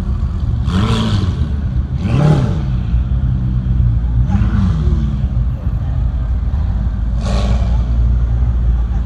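Sports car engines idling as the cars creep by in a line, one blipping its throttle three times in the first five seconds, each blip rising and falling in pitch. A few short, sharp bursts of noise come through over the engine drone.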